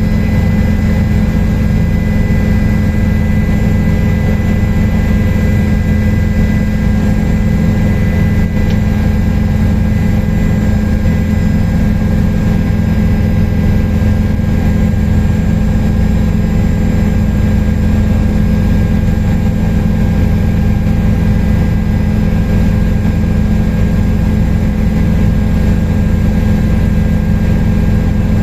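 Helicopter in steady cruise flight, heard on board: a constant loud drone of engine and rotor, with a steady high whine running through it.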